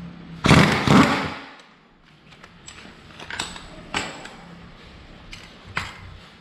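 Metal tools clattering on a scooter's CVT clutch: a loud clatter in two quick peaks about half a second in, then a few scattered lighter clicks and knocks.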